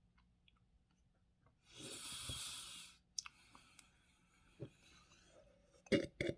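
A person chewing a jelly bean with faint wet mouth clicks, then a long breath out lasting about a second, then a few sharp mouth clicks and smacks near the end.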